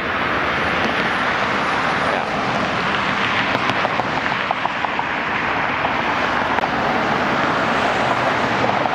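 Steady rushing noise of motor vehicles, with no single event standing out.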